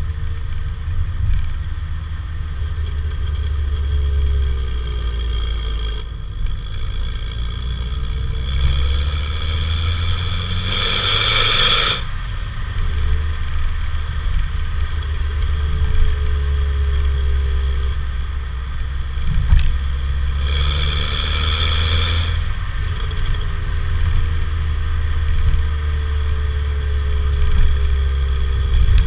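Opel Vectra B's 1.8-litre four-cylinder X18XE1 engine running through a Novus aftermarket rear silencer: a steady deep exhaust rumble with slowly rising and falling engine tones. Two short bursts of hiss come about a third and two-thirds of the way through.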